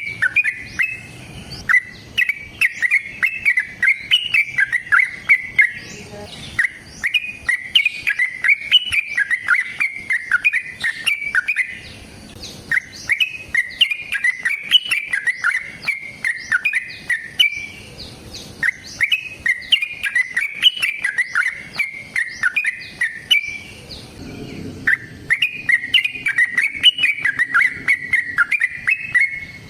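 Yellow-vented bulbul (trucukan) singing long, rapid runs of chirping notes. Each run lasts several seconds, with a short break about every six seconds.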